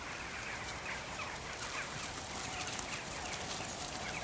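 Birds calling: a quick run of short, falling chirps, several a second.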